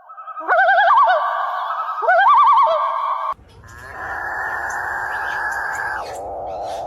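Bird calls: two rising calls that break into a fast, wavering warble, each about a second long. After an abrupt cut comes a long, harsh, rasping sound lasting several seconds.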